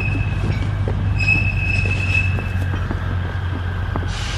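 Alishan Forest Railway narrow-gauge diesel locomotive and carriages running slowly with a steady low engine rumble. The wheels squeal in a high tone on the curved track, briefly at the start and again for about a second from about a second in.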